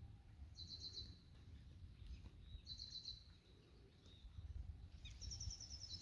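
Faint songbird trilling: a short burst of rapid, high repeated notes, three times about two seconds apart, over a low rumble.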